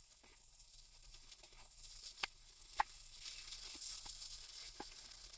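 Chicken pieces frying in oil in a pot as they brown: a soft sizzle that grows louder, with a few sharp pops of spattering fat.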